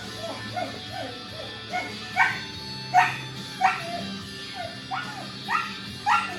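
Young puppy giving a run of short, high yips and whimpers, faint at first and then louder from about two seconds in, roughly one every half second to a second, over background music.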